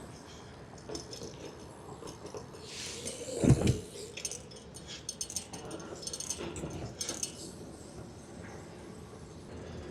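Light metallic clinks and rattles, with one dull thump about three and a half seconds in.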